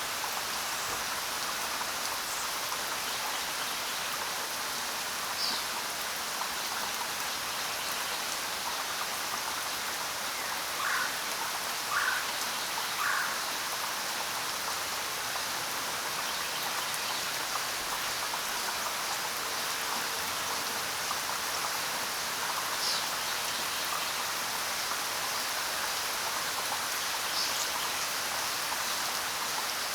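Steady rain falling, with a few brief bird calls above it, three in quick succession near the middle.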